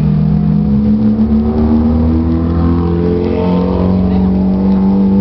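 Ferrari sports car engine revving as it drives past slowly. The engine note climbs and then drops a step twice, about half a second in and again past halfway.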